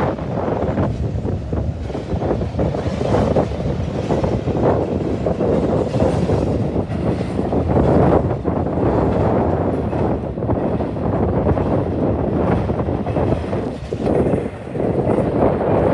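Wind buffeting the microphone, a loud rumbling rush that swells and eases.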